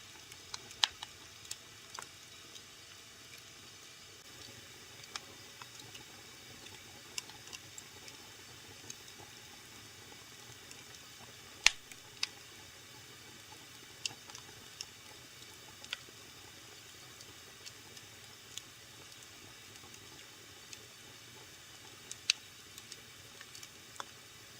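Wood fire burning in a fireplace, crackling: irregular sharp pops and snaps over a low steady hiss, with loud pops about a second in, near the middle and near the end.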